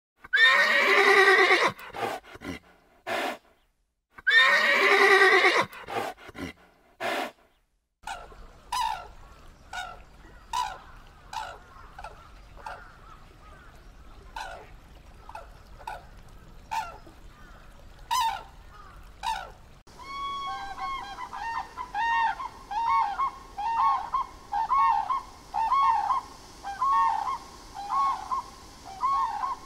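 A foal whinnying twice, each a long, loud, wavering call, with a few shorter calls after. Then grey crowned cranes honking: scattered single calls, and from about two-thirds in a fast, regular series of honks.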